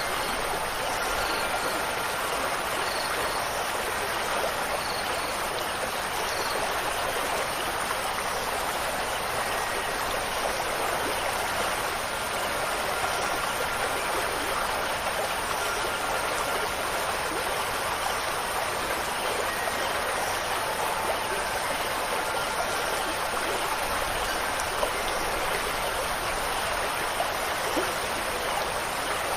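Steady rush of running water, like a stream, with faint chime tones now and then.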